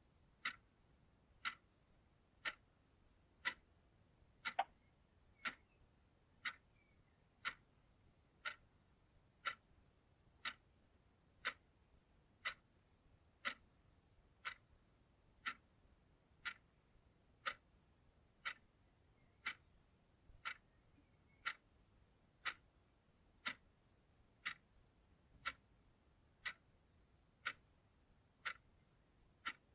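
Clock ticking steadily, one sharp tick per second, with one slightly louder tick about four and a half seconds in.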